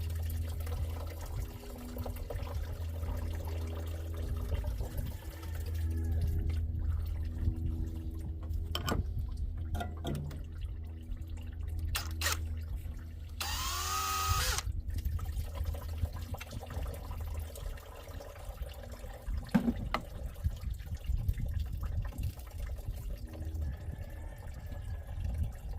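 Green engine coolant draining and dripping out of a Nissan KA24 engine's cooling system, with scattered clicks of tools. About halfway through there is a brief, loud mechanical whir.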